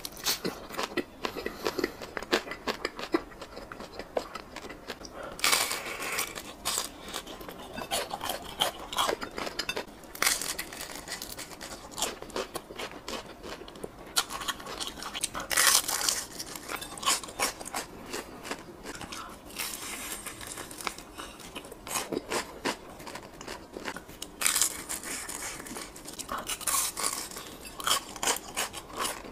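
Close-miked chewing and crunching of crisp, crumb-coated fried skewers, with a handful of louder crunching bites spread through the steady crackle of chewing.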